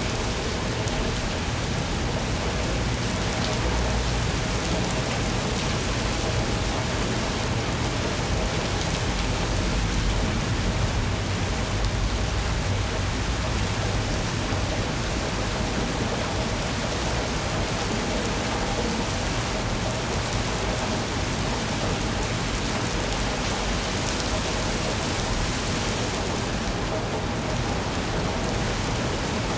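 Steady rain falling, with a low rumble underneath that is strongest in the first half.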